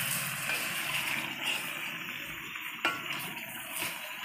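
Marinated chicken sizzling in a rice cooker pot as a spatula stirs it, with one sharp knock about three seconds in.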